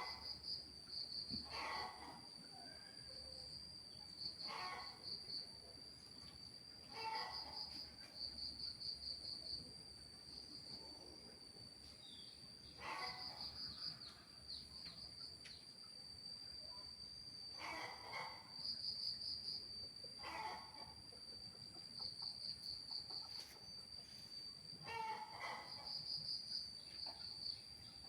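Crickets trilling: a steady high buzz that swells into rapid pulsed chirps every few seconds. Short, faint noisy sounds lower down come in between at irregular intervals.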